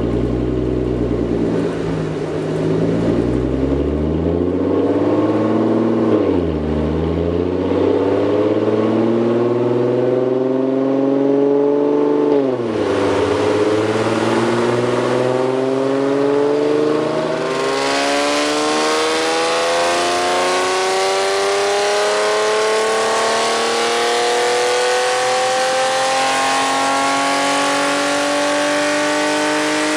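Shiftech ECU-tuned Audi B8 S4 Avant's supercharged 3.0 V6 through an Armytrix valved cat-back exhaust with the valves open in race mode, accelerating hard through the gears on a chassis dyno. The engine note climbs, drops sharply at gear changes about 6 and 12 seconds in, then climbs slowly and steadily through a long final gear.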